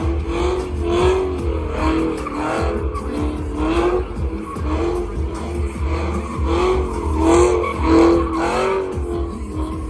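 A vehicle doing a burnout: engine held at high revs while the tyres squeal, the pitch wavering up and down about twice a second over a steady low rumble.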